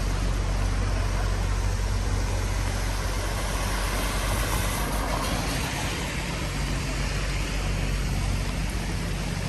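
Steady rain hiss on a street with a motor vehicle's engine idling, a constant low hum under the hiss.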